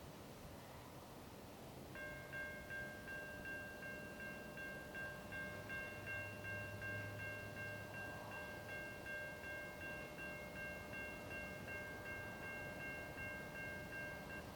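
Railroad grade-crossing warning bell starting to ring about two seconds in, repeating steadily at about two strokes a second.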